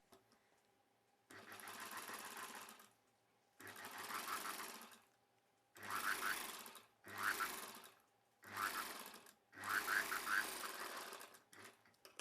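Sewing machine running in six short runs of about one to two seconds each, with brief pauses between, as it stitches thread piping onto a blouse's prince-cut edge.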